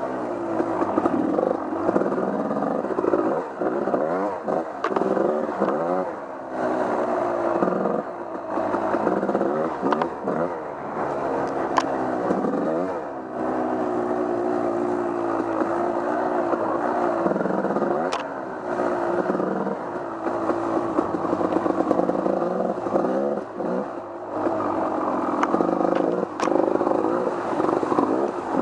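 Off-road vehicle engine revving up and down over and over as it is ridden along a trail, with a few sharp knocks and some clatter.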